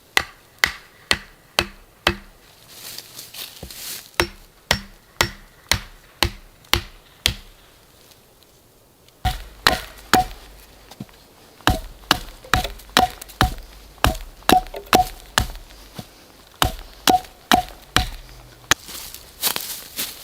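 Repeated chopping strikes into wood, about two a second, with a pause of about two seconds midway. The later strikes carry a short ringing note.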